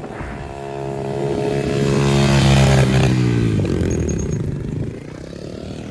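Pit bike engine running hard under throttle, growing louder, then its pitch drops and it fades away about three seconds in.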